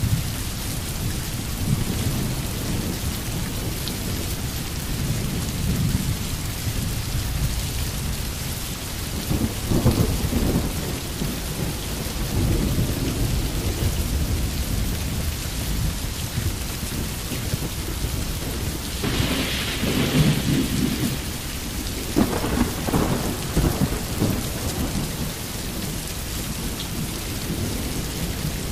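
Steady rain with low rumbles of thunder that swell and fade, once about a third of the way in and more strongly about two-thirds through.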